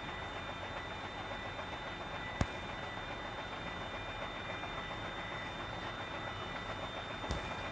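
Steady running noise of a container truck on the move: an even engine and road rumble with a faint high whine, and two sharp knocks, one about two and a half seconds in and one near the end.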